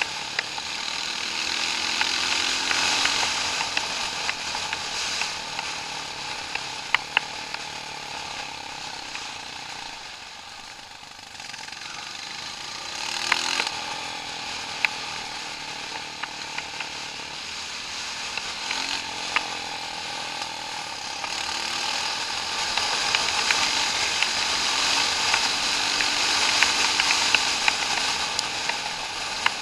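Off-road vehicle driving a rough trail: the engine revs up and down under a constant rattling and knocking of the vehicle, with sharp clicks scattered throughout.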